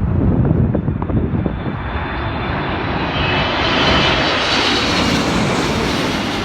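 An airliner passing close by: its engines swell to a loud rushing whine with thin high tones, peak about four seconds in, then begin to fade. Low wind rumble on the microphone sits under it at the start.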